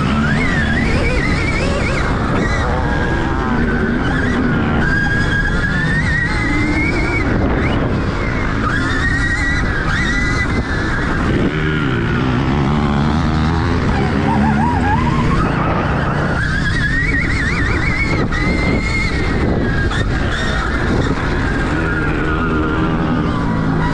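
Stark Varg electric motocross bike being ridden: the electric motor's high whine repeatedly rises and falls as the rider accelerates and backs off. Under it runs a dense, rough low noise.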